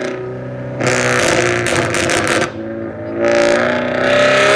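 A car accelerating hard away, its engine revving up in two pulls with a short drop in between, about halfway through, as it shifts gear.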